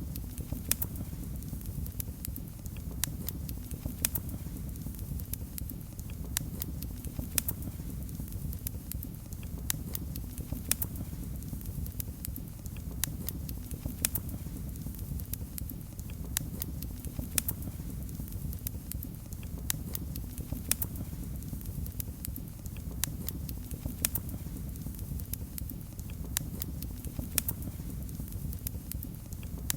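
Wood fire crackling in a fireplace: a steady low rumble of the flames with sharp, irregular pops and snaps, several a second.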